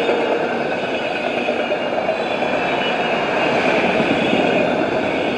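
Steady noise of a freight train's autorack cars rolling past at speed, steel wheels running on the rails.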